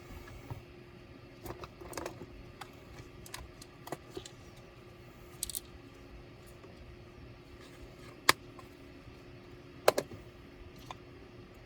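Scattered small clicks and taps of hand tools and plastic and metal laptop parts being handled while a laptop is taken apart, with two sharp, louder clicks about eight and ten seconds in, over a faint steady hum.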